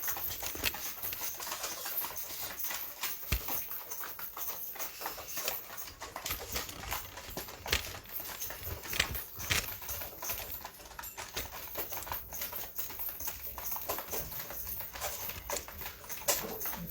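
Pigeons moving about, making scattered, irregular taps and scuffles.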